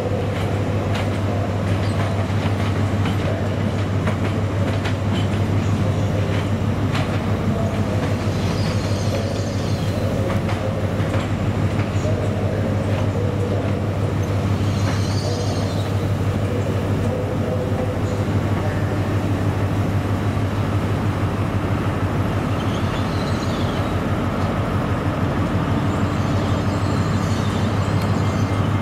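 LNER Azuma (Hitachi) train running slowly into a station platform over pointwork: a steady low hum, with wheels clicking over the rail joints in the first few seconds and a few brief high wheel squeals.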